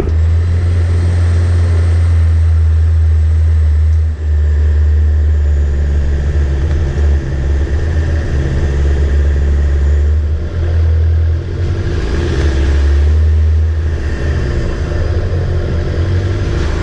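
4WD vehicle driving, its engine and road noise making a steady low drone, with a few brief dips in level.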